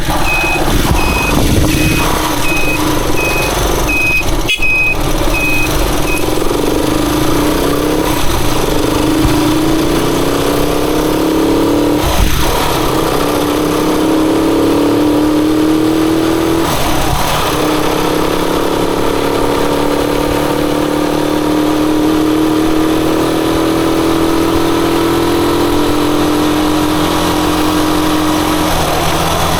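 Motorcycle engine under way, its pitch climbing and dropping back sharply twice, about 12 and 17 seconds in, as it shifts up through the gears, then running fairly steadily. A high beep sounds about twice a second and stops about six seconds in.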